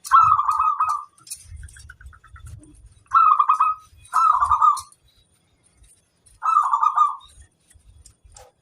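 Zebra dove (perkutut) cooing: four short, quickly pulsed coo phrases, with fainter short chirps between them.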